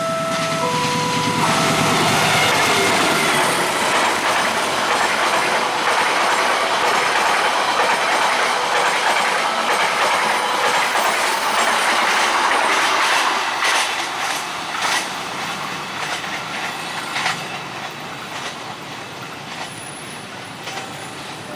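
A train passing over a level crossing: a loud, steady rush of wheels on rail that fades away with clicks of wheels over rail joints. The crossing's electronic warning tones sound briefly at the start.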